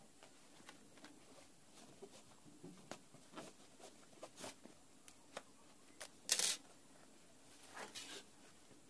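Quiet handling sounds: scattered light clicks and rustles, with a louder brief rustle or scrape about six and a half seconds in and a softer one near the end.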